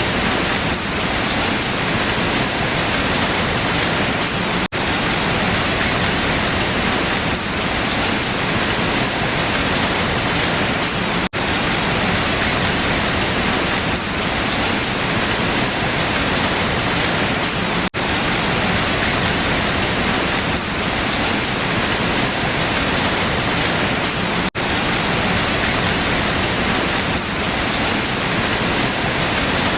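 Steady rain falling on leaves, a dense even patter, broken by a momentary gap about every six and a half seconds.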